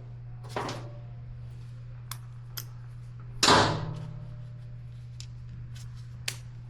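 Scattered clicks and knocks of hand tools and motorcycle parts being handled during a sprocket job, with one louder clank and brief ring about three and a half seconds in, over a steady low hum.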